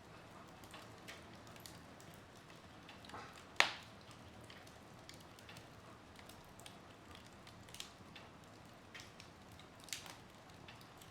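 Wood fire in a fireplace crackling softly, with scattered small pops and one sharp, louder pop about three and a half seconds in.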